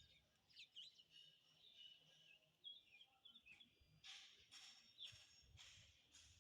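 Faint birds chirping and twittering, with a few short bursts of hiss a little past the middle.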